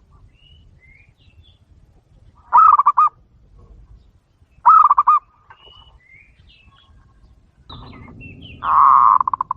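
Doves in an aviary cooing: three loud, rapidly pulsing rolling calls, two short ones about two and a half and four and a half seconds in and a longer one near the end. Faint high chirps from other birds come in between.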